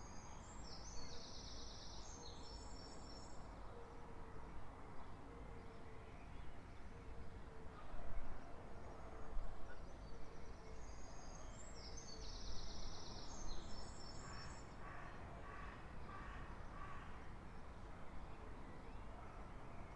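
A songbird singing the same short, high, rapid phrase twice, about ten seconds apart, over a steady background hum of distant environmental noise, with fainter low repeated notes in between.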